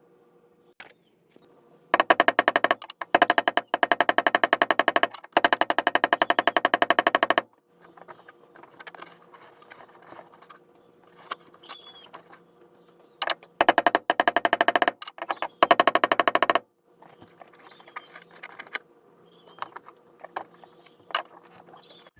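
Fast, evenly spaced mechanical clicking in several bursts of one to three seconds, a tool rattling as it works on fasteners, with scattered single clicks between the bursts.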